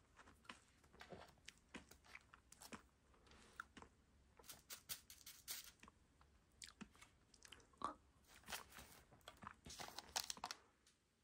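Quiet, irregular crunching of candy sprinkles being chewed, with light clicks of a plastic spoon against a plastic tray.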